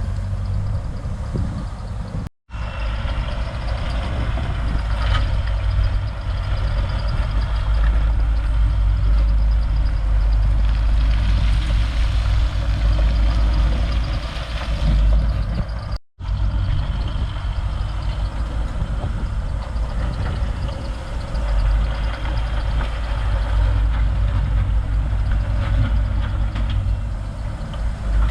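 Heavy diesel earthmoving machinery running steadily with a deep engine rumble, dropping out for an instant twice.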